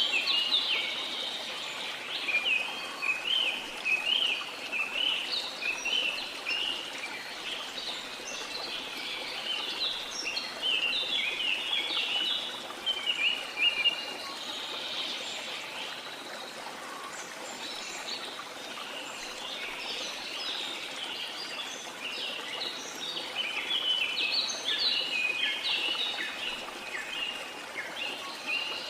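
Rainforest birds chirping and chattering in a dense chorus of short, quick calls over a steady rush of water. The calls thin out for a few seconds around the middle, then pick up again.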